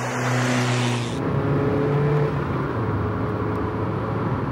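Mazda Miata's four-cylinder engine running as the car is driven along a winding road, over road noise. About a second in the sound changes abruptly to a different, steady engine note.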